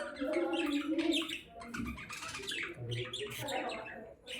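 Budgerigars chattering, a dense run of quick chirps and squawks.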